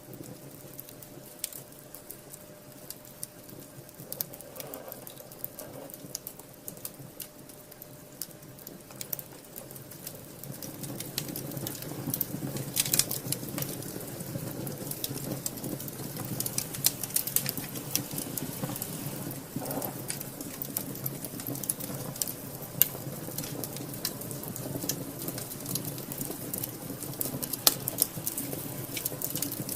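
Wood fire in a fireplace crackling, with many sharp pops over a low rush of flames; the crackling grows louder and busier about ten seconds in.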